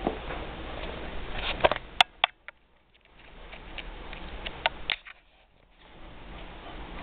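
Kittens playing, their paws and claws tapping and scrabbling in two flurries of sharp little clicks, about two seconds in and again near five seconds, over a steady background hiss.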